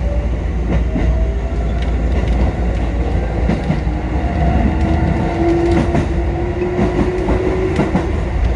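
Kotoden four-car electric train (1080 and 1100 series) running and picking up speed just after leaving a station: a steady low rumble with a whine that slowly rises in pitch, and wheels clicking over rail joints.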